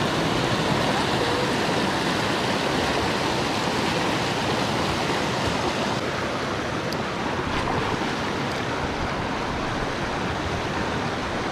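Steady rushing of creek water pouring over a waterfall and shoals, an even hiss without change.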